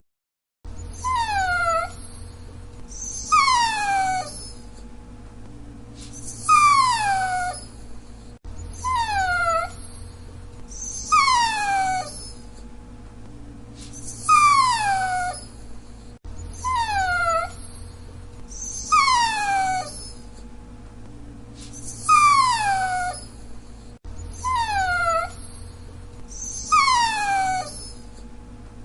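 Dachshund whining: short high whines, each falling in pitch, repeating every two to three seconds over a faint steady hum.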